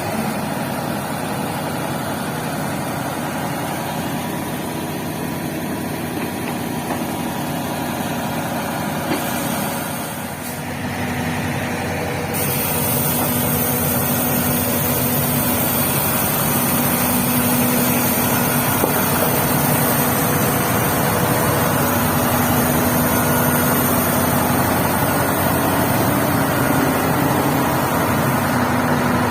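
Heavy vehicle diesel engine running steadily, growing louder about twelve seconds in.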